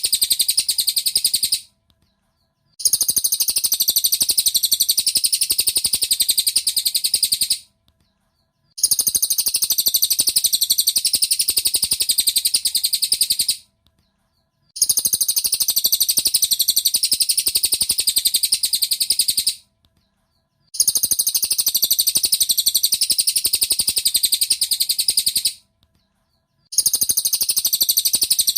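Cililin bird song, a high, rapid, chattering run of notes lasting about five seconds, broken by short silences of about a second and repeated the same way over and over: a looped masteran recording for tutoring songbirds.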